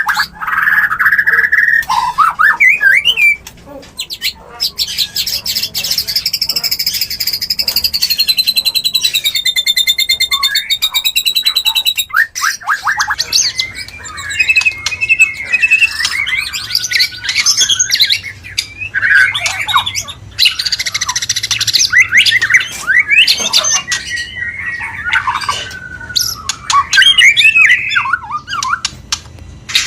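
White-rumped shamas calling and singing in breeding condition: loud, varied whistles mixed with harsh, squawking notes, including a long wavering buzzy note early on and a short break about twelve seconds in. This is the mating-call sound kept by shama owners to bring a bird into breeding mood.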